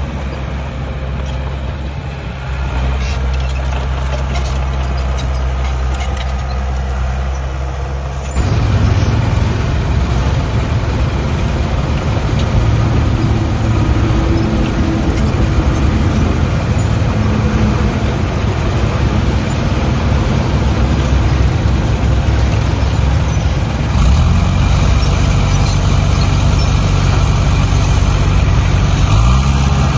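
Heavy diesel engine of earthmoving machinery running steadily, getting louder about eight seconds in and rising in pitch as it revs up near the end.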